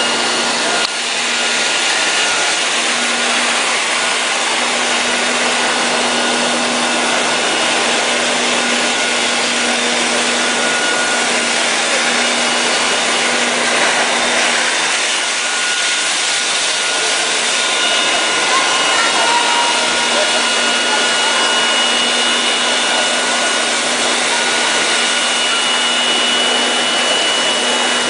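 Kärcher BD 530 floor scrubber-dryer running, its motors giving a steady rushing noise with a constant hum and high whine.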